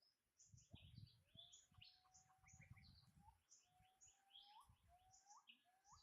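Birds chirping faintly: many short, high chirps, plus a repeated call that slides up in pitch and comes faster near the end, over low rustling thumps in the first few seconds.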